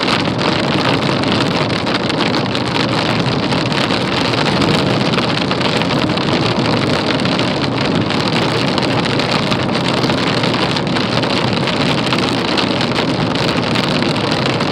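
Steady rushing noise of a vehicle travelling at road speed, wind and tyre noise with no distinct engine tone.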